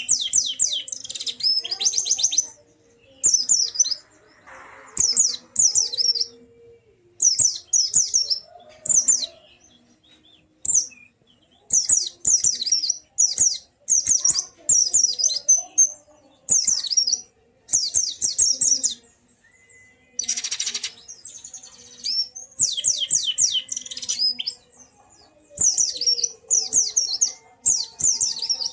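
White-eye (pleci) singing: rapid high twittering phrases, each about one to two seconds long, repeated with short pauses between them.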